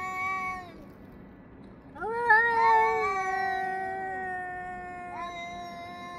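Two cats yowling at each other: long, drawn-out calls, one tailing off just under a second in, then a louder yowl about two seconds in, overlapped by the other cat's call and held for several seconds, and another starting near the end.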